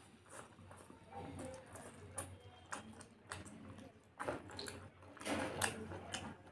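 A person chewing a mouthful of chicken stir-fry and rice close to the microphone: wet chewing, squishing and sharp lip smacks, with the loudest smacks about five seconds in.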